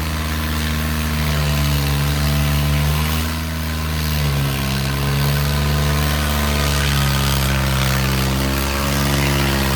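Diesel tractor engines running hard under load in a tractor tug-of-war, the engine note wavering and dipping briefly about four seconds in before holding steady again.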